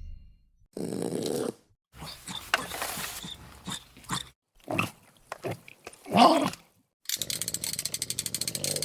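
A dog's growling and whining vocal sounds among short noisy bursts, the loudest a bending whine a little after six seconds in, then a fast rattling run of taps at about ten a second near the end.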